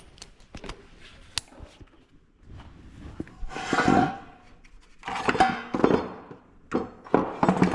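Shop handling noises: scattered small clicks and knocks of parts and tools being moved about, with louder scraping, rustling stretches about three and a half and five seconds in.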